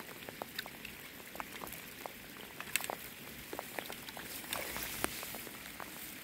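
Rain pattering: scattered, irregular drops ticking close by over a soft steady hiss.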